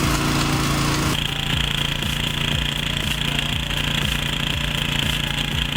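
Engine-driven machine running steadily, with a high, steady whine joining about a second in.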